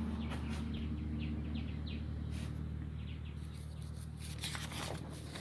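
Short, faint bird chirps repeating over about the first two seconds, over a steady low hum.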